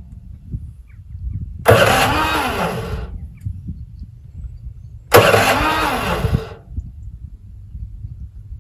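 Petrol garden shredder's engine being pull-started twice, each pull a sudden burst of cranking that rises and falls in pitch for about a second. It never catches. A low engine rumble carries on between the pulls.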